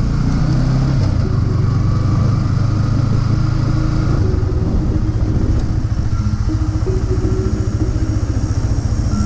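Yamaha R15 V4's 155 cc single-cylinder engine running as the motorcycle rides off at low speed, heard from the rider's seat.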